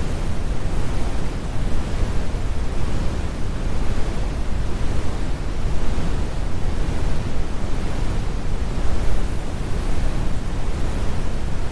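Steady, deep brown noise: a continuous even rumble weighted to the low end, with the high frequencies rolled off and no changes or events.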